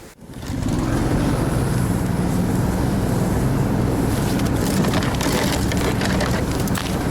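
Small all-terrain vehicle engine starts running steadily about half a second in, with a pulsing low rumble and scattered clicks and crunches above it.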